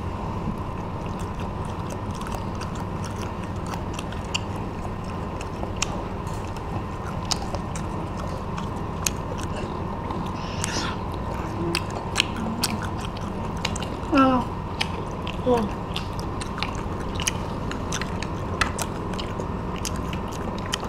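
Close-up crunching and chewing of crispy battered fried shrimp, a run of sharp crackly bites, over a steady background hum. A brief hummed voice sound comes about two-thirds of the way in.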